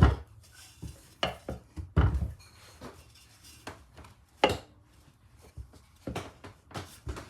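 Irregular metal clanks and knocks, about a dozen sharp ones spread over several seconds, the loudest at the start and about two seconds in, as metal outboard-motor parts and hand tools are handled and knocked together.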